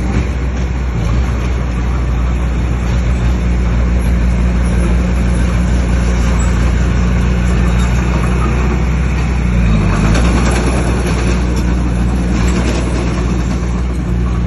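Bulldozer's diesel engine running steadily under load, its pitch dipping briefly and recovering about ten seconds in.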